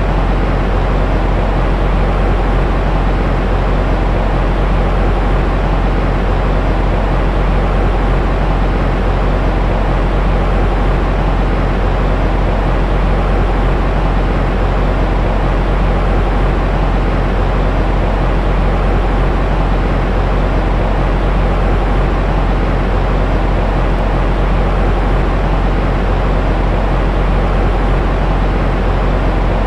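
Steady white noise played as a baby sleep aid, heavy in the low end, so it sounds like a deep rushing hiss with a faint hum. It does not change at all.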